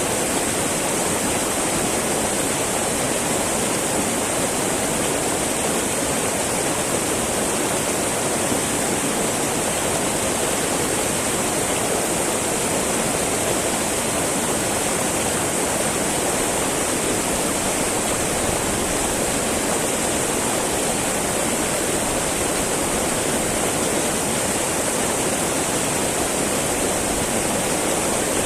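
Small mountain river babbling over rocks, a steady, even rush of flowing water with no breaks.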